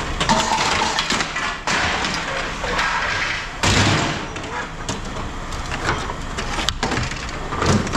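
Pieces of scrap aluminium extrusion being handled and dropped into a bin, with clattering and thuds; the loudest thud comes about three and a half seconds in.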